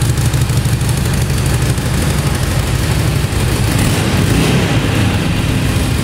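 Harley-Davidson Sportster 883 Iron's air-cooled 883cc V-twin idling steadily through its factory stock exhaust.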